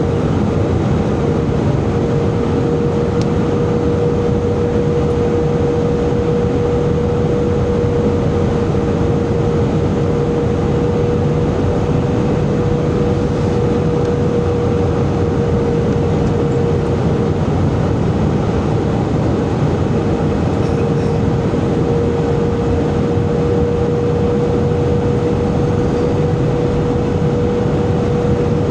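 Steady cabin noise inside an Airbus A320 in flight: the constant roar of engines and airflow, with a steady mid-pitched hum running through it.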